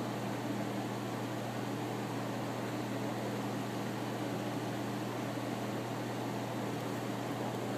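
Steady machine hum with an even hiss, unchanging throughout; no bird calls stand out.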